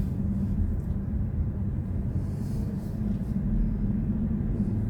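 Steady road and tyre rumble of the BMW i4 M50 electric car while driving, with a steady low hum under it.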